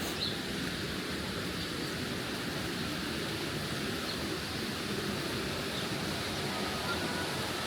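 Steady rushing water of a mountain stream, with a few faint, brief high chirps over it.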